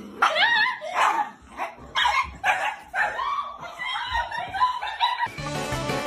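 A dog barking and yipping in a rapid run of high, sliding calls, several a second. Music starts near the end.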